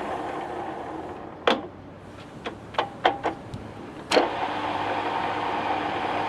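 Takisawa TSL-550 engine lathe running, then winding down about a second in, followed by a series of sharp clicks and clunks. After the loudest clunk, about four seconds in, it runs again with a steady hum.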